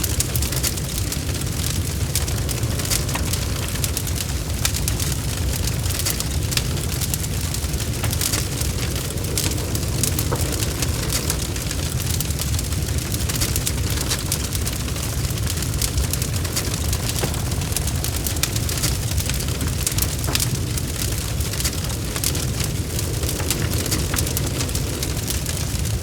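Wood logs burning in a fireplace, crackling with many small sharp pops over a steady low rumble of the flames.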